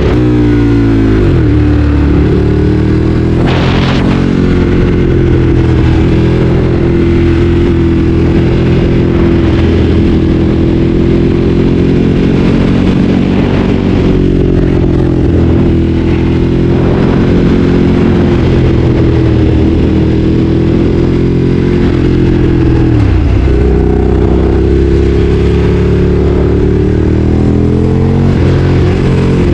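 Ducati Streetfighter 848's L-twin engine running under way while ridden, loud and close. The engine note drops sharply at the start, then climbs and holds a fairly steady pitch. It dips again about two-thirds of the way through and rises once more toward the end as the bike speeds up.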